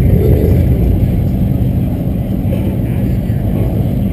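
A car engine running with a steady, deep low note, easing off slightly partway through.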